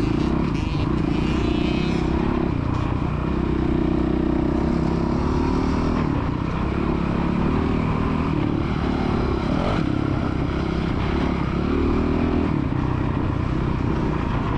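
A child's motocross bike engine running under throttle, its pitch climbing and dropping as the rider revs it.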